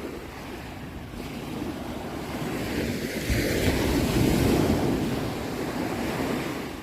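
Ocean waves: a wave swells, breaks about three seconds in and washes out, fading near the end, with a low rumble under the hiss.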